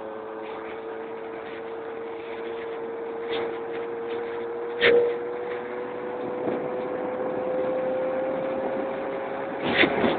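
Keeway Hurricane scooter engine running at a steady cruising speed, its pitch dipping slightly and then rising again. Two short knocks cut in, about halfway through and near the end.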